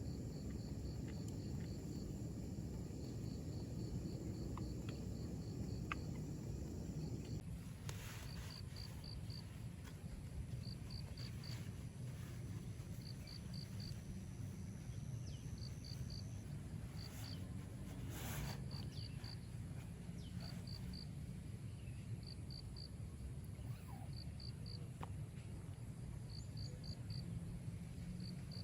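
An insect chirping high and fast in short groups of three or four pulses, repeating about every second and a half, over a steady low outdoor rumble.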